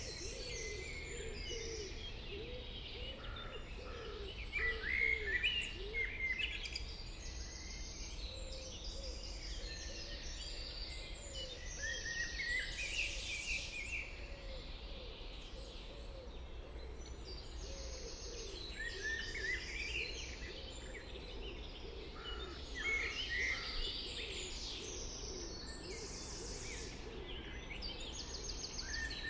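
Several songbirds singing at once, a dense chorus of chirps and trills, with a lower repeated call of short rising-and-falling notes underneath and a faint steady low hum.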